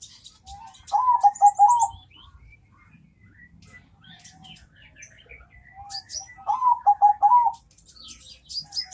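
Zebra dove (perkutut) cooing its rhythmic song twice, each phrase a short lead note followed by a quick run of rolling coos, with high chirps from other birds.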